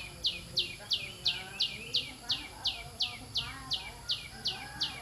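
A bird calling a long, even series of sharp high notes that each drop quickly in pitch, about three a second.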